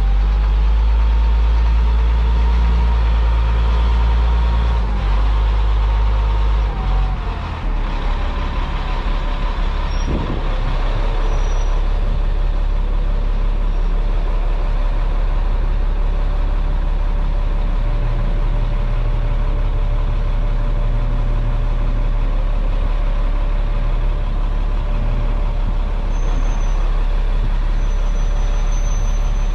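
Tow truck engine running under way, with a steady low rumble, road noise and a faint whine. The engine note changes and briefly dips about seven seconds in, then runs steadily.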